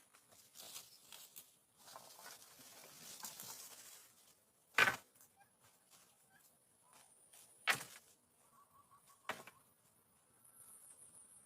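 Rustling and handling noise, then three sharp knocks a few seconds apart.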